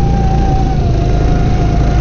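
Go-kart engine running on track, its whine holding fairly steady and dipping slightly about a second in, over a heavy low rumble.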